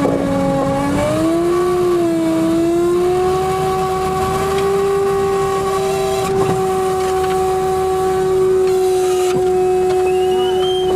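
Steady mechanical whine of the Tornado Intercept Vehicle 2's hydraulic deployment system as it lowers the armour panels: the pitch wavers at first, then holds steady over a low rumble.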